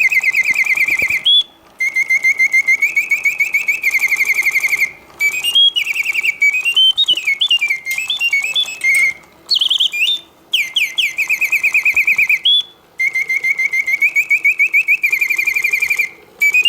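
Reuge singing bird cage's mechanical bird singing on continuous mode: a sweet whistle of very rapid trills, some held at one pitch, some gliding up and down, broken every few seconds by brief pauses. It hits all the proper oscillating notes of a well-serviced mechanism.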